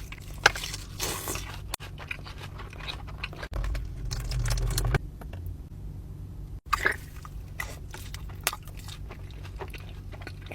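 Close-up eating sounds: crunchy bites and chewing of a juicy mouthful of food, with many short crackles.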